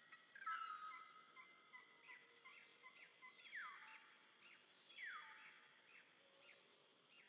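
Faint birdsong: many short, repeated notes, with two loud falling calls about three and a half and five seconds in.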